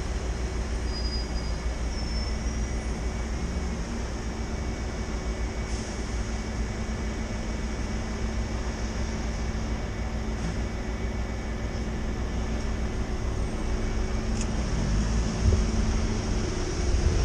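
Steady city traffic and road noise heard from a bicycle riding on wet streets, with a constant low rumble and a faint engine hum, growing a little louder near the end.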